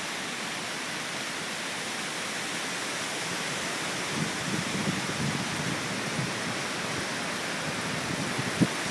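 Strong hurricane wind rushing steadily, with gusts rumbling on the microphone about halfway through and a brief thump near the end.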